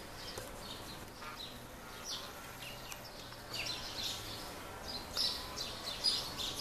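Birds chirping in the background: many short high chirps at irregular intervals, over a faint steady low hum.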